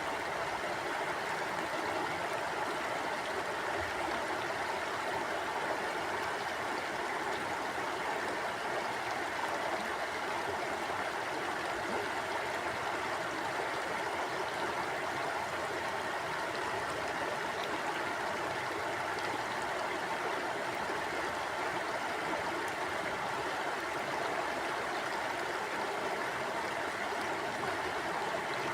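Mountain stream flowing steadily over rocks: a constant rushing and gurgling of water with no breaks.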